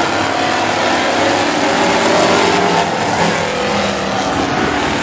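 Several race trucks' engines running hard together on the speedway, a loud, steady mix of engine notes that rise and fall a little.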